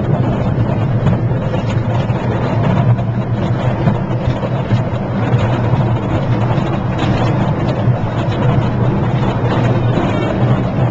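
Park ride train in motion, heard from aboard: a steady low engine drone over the running noise of the ride.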